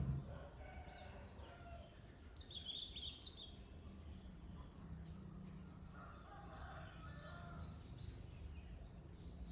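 Birds chirping, with a cluster of high chirps about two and a half to three and a half seconds in, over a steady low hum.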